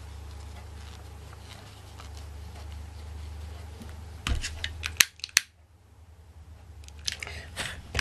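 Handling of small craft tools and materials: a quick cluster of sharp clicks and snips about four to five seconds in, then a rustling scrape near the end, over a steady low hum.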